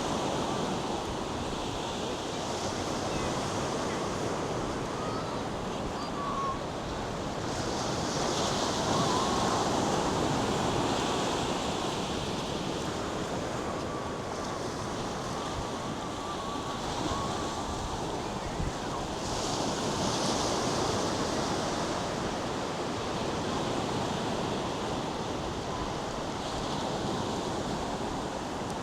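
North Sea surf breaking and washing up a sandy beach: a steady rush that swells about eight seconds in and again about twenty seconds in, with some wind on the microphone.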